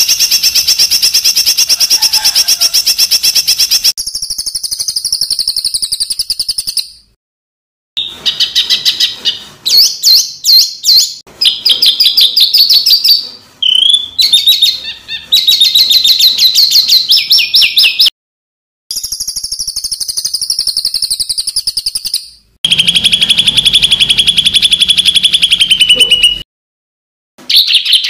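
Songbird masteran song of rough rapid-fire phrases ("tembakan kasar"): loud, very fast runs of repeated high notes and trills, changing phrase from segment to segment. The song is cut three times by abrupt short silences where recordings are spliced together.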